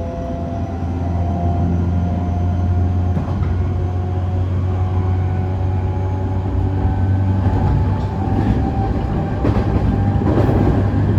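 E531 series electric train running on the Joban Line, its Hitachi IGBT inverter and traction motors giving several steady whining tones over a deep rumble of wheels on rail. A few rail-joint clicks come near the end.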